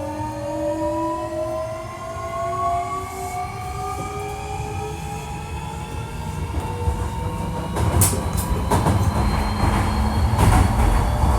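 Hankyu 1300 series electric train heard from inside the car: the traction motors' whine rises steadily in pitch as the train picks up speed. From about eight seconds in, the running gets louder, with sharp clicks of the wheels passing over rail joints.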